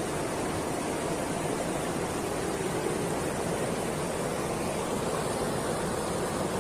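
Sea surf at a beach: a steady, even rush of water noise with no single wave standing out.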